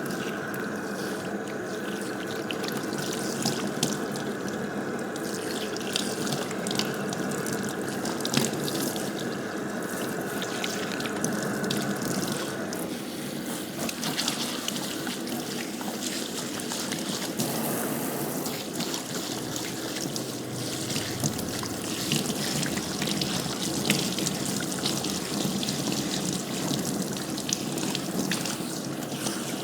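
Water running steadily and splashing, as from a tap or spray, with small scattered drips and taps. A faint steady tone stops about twelve seconds in.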